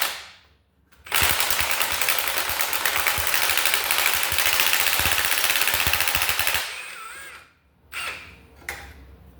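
Impact wrench hammering on an exhaust manifold bolt through a turbo extractor socket for stripped bolts. It starts about a second in, runs for roughly five seconds and winds down, followed by a couple of short knocks near the end.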